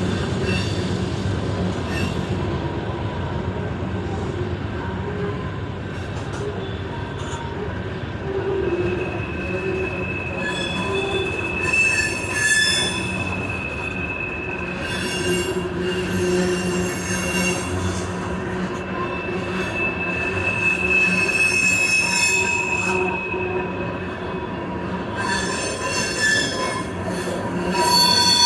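Union Pacific tank train rolling past with a steady low rumble from its rolling stock, and steel wheels squealing in high, thin tones that swell and fade. The squeal is strongest at the very end.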